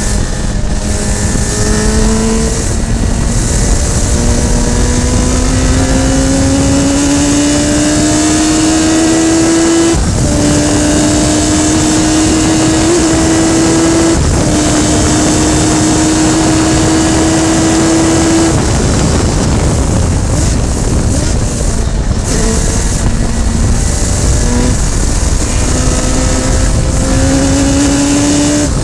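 Radical SR3 sports racing car heard onboard at racing speed: the engine climbs in pitch through several quick upshifts, holds steady at high revs for several seconds, goes rough and broken for a few seconds after the halfway mark, then pulls up through the gears again near the end, with wind and road noise throughout.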